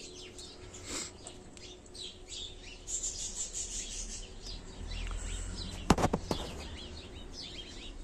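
Small birds chirping repeatedly with short high chirps, and a few sharp clicks about six seconds in.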